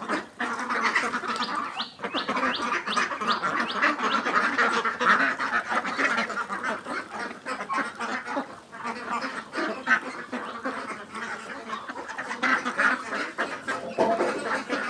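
A flock of Khaki Campbell ducks quacking continuously, many calls overlapping.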